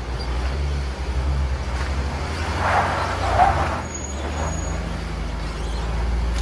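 Off-road vehicle engine running at low revs on the trail, a steady low rumble, with a brief burst of rougher, higher noise about three seconds in.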